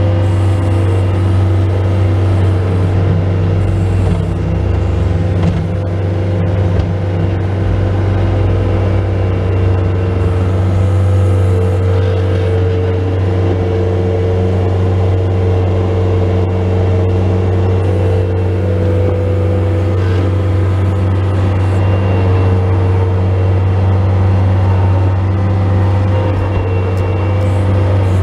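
Bobcat S185 skid steer loader's diesel engine running steadily and loudly, with a slight wavering in pitch, as the loader works clearing snow.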